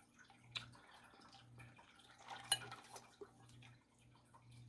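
Faint scattered drips and light taps, typical of poured acrylic paint dripping off a canvas's edges. Under them runs a low hum that breaks off about every second.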